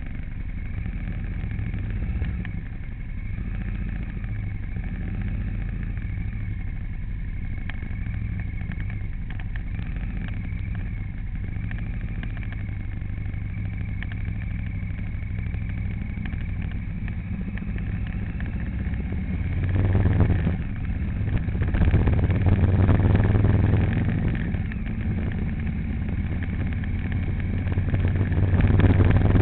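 A vehicle's engine running steadily with a low hum while travelling. It grows louder about twenty seconds in and again near the end.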